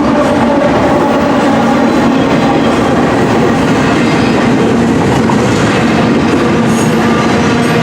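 Freight train cars rolling past, a loud, steady rumble of steel wheels on rail.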